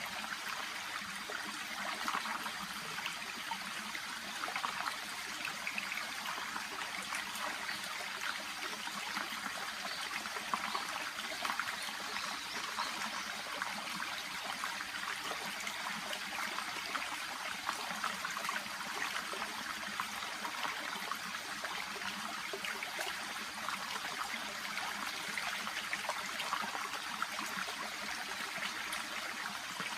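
A shallow brook babbling and trickling steadily over stones, a constant bubbling rush of water with fine splashy flickers.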